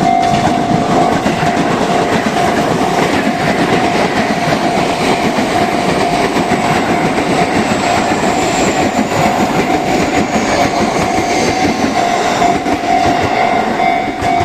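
Sotetsu 20000 series electric train passing close by, its wheels clattering steadily over the rail joints, while the level crossing's warning bell keeps ringing with a steady pulsing tone.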